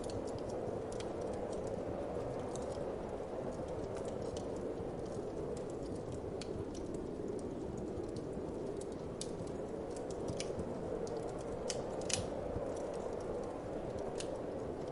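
Wood fire in a fireplace crackling with irregular sharp pops, the loudest about twelve seconds in, over a steady low whoosh of wind.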